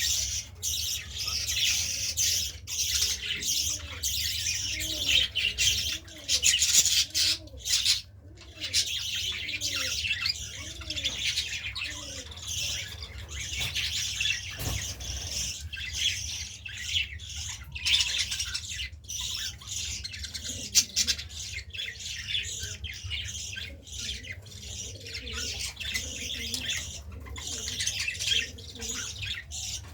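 Many caged birds chirping and squawking together in a dense, continuous high chatter. About a quarter of the way in, a pigeon coos in a run of low, repeated calls for several seconds.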